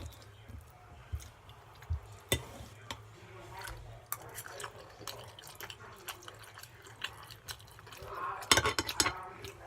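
Open-mouthed chewing and lip smacking while eating lasagna: scattered wet clicks and smacks, with a louder cluster near the end.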